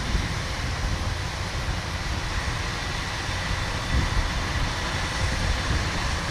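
Kubota DC-105X combine harvester running steadily under load, a continuous mechanical drone of engine and threshing machinery with a faint steady whine.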